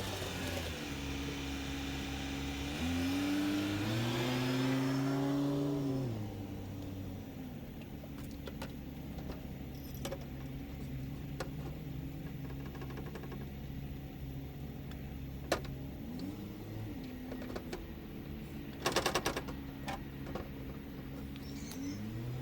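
A motor vehicle's engine running, its pitch climbing and dropping again several times as it speeds up and eases off. A short rattle sounds late on.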